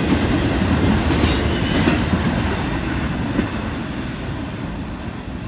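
Freight train of autorack cars rolling past, wheels rumbling on the rails. A high-pitched wheel squeal rises about a second in and lasts about a second. The sound then fades gradually as the end of the train passes and moves away.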